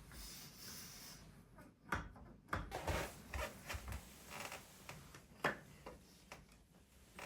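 A series of light clicks and knocks, as of small objects being handled and set down, after a soft hiss at the start.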